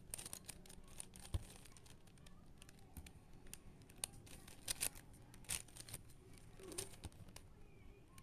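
Faint, irregular plastic clicking of a puzzle cube's layers being turned by hand, with one soft thump about a second and a half in.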